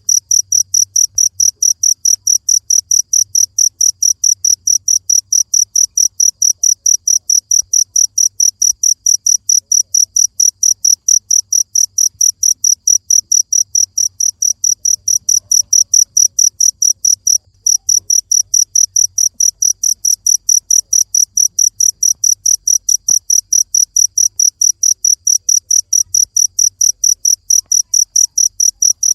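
A cricket chirping in a steady, even rhythm of about four high chirps a second, with one brief break about halfway through.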